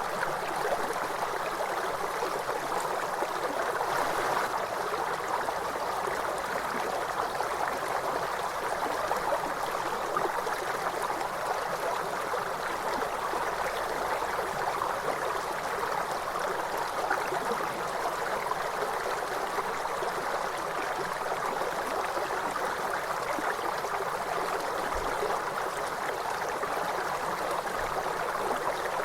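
River water flowing steadily, an even rushing and gurgling without pause.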